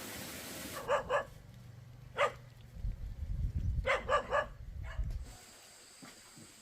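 A dog barking: six short barks in three groups, two, then one, then three, with a low rumble under the last group.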